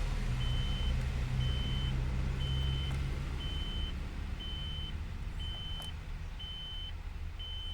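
Eicher BS6 truck's dashboard warning beeper sounding a steady high-pitched beep about once a second, each beep about half a second long, over a low steady hum.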